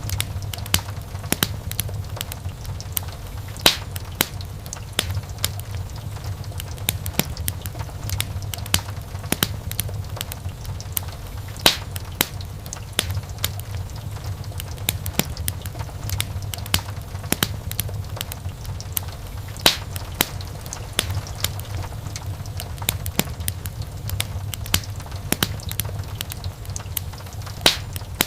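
Wood fire crackling: irregular sharp snaps and pops from burning logs over a steady low rumble of the flames, with a few louder pops now and then.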